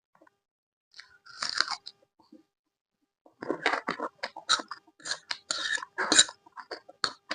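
Close-miked crunching and chewing of crisp fried food: one loud crunching bite about a second and a half in, then a run of quick, sharp crunches from about halfway on.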